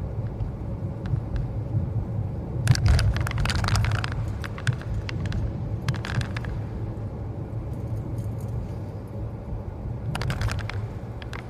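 Steady low road and engine rumble inside a moving car's cabin, with short bursts of clicking or rattling about three seconds in, around six seconds and near ten seconds.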